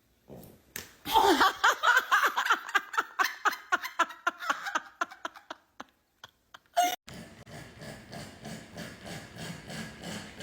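Person laughing hard in rapid, pulsing bursts for about four seconds, fading out. A sharp click about seven seconds in, then a softer rhythmic rasping noise.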